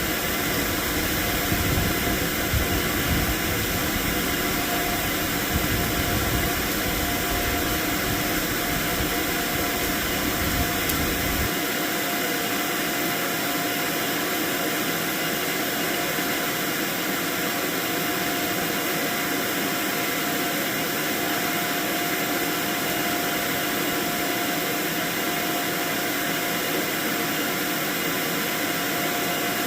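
Steady rushing noise like a blower or fan running, with a few faint steady tones in it. A low rumble underneath cuts out suddenly about a third of the way through.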